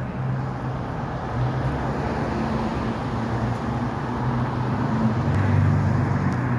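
Steady low motor hum and traffic noise, swelling louder near the end.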